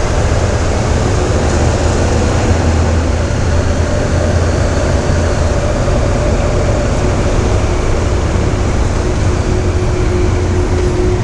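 Steady, loud engine rumble with a strong low hum and a few faint steady tones above it, unchanging throughout.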